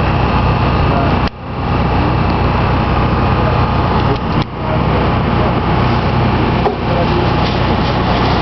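Running noise of a moving SuperVia Série 1000 electric commuter train, heard from an open door or window, with wind rushing past. It is loud and steady, with a low hum, and drops out sharply for a moment about a second in and again around four and a half seconds.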